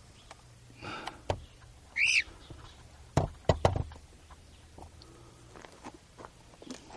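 A cockatiel gives one short chirp, rising then falling in pitch, about two seconds in. A cluster of sharp knocks follows about a second later.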